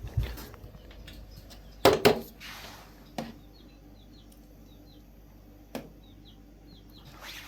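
Metal cookware knocking and clattering as it is handled, loudest in a double clatter about two seconds in, then single knocks about three and six seconds in. Faint short bird chirps repeat in the background.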